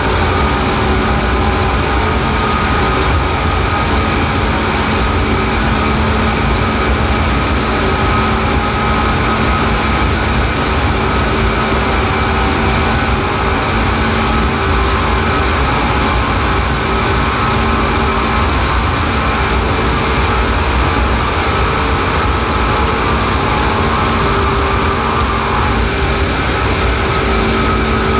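Seibu 4000 series electric train running at steady speed, heard from inside the passenger car: a constant low rumble of wheels on rail, with a steady motor and gear hum that fades and returns.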